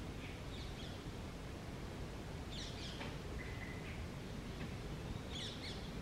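Short, high bird chirps and calls come in a few spaced bursts, the loudest about two and a half and five seconds in, with a brief held note between them. A steady low outdoor rumble runs underneath.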